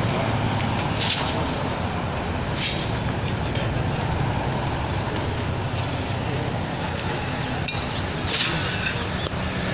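Steady engine rumble of a heavy vehicle or machine, with a few sharp clinks and knocks scattered through it.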